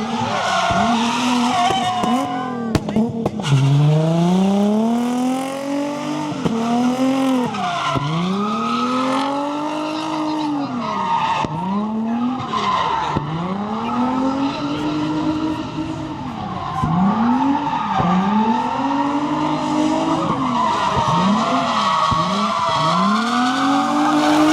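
A car engine revving up and down over and over, each rise and fall lasting about one to two seconds, while the tyres squeal and skid continuously as the car spins donuts.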